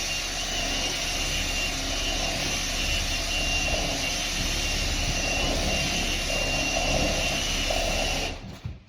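A power tool's motor running steadily with a faint high whine, then stopping abruptly near the end.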